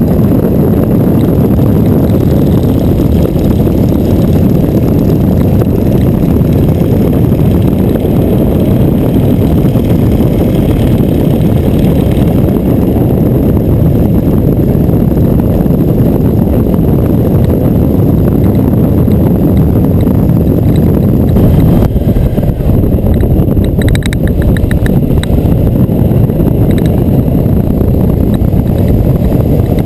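Boeing Stearman biplane's radial engine running loud and steady in flight.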